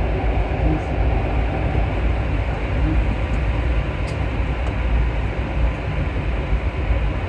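Rubber-tyred Alstom MP14 metro train running steadily through a tunnel, heard from inside the car as a continuous deep rumble with a faint whine.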